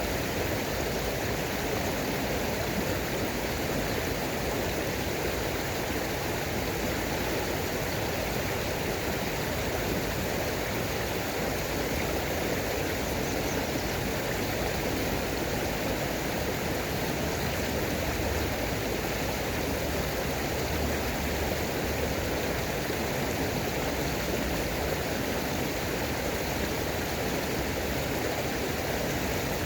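Running water rushing steadily, with no change in level or pattern.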